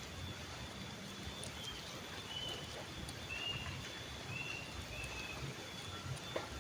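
Steady outdoor ambience with a faint constant high tone, over which a bird gives a series of five short whistled notes about a second apart; a single click near the end.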